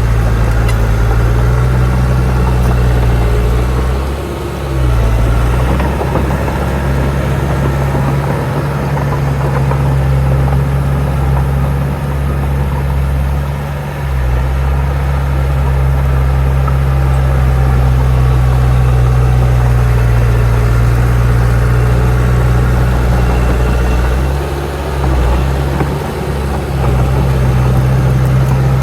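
Heavy diesel engine of earthmoving machinery running steadily at an even pitch, with brief dips in loudness a few seconds in and again near the end.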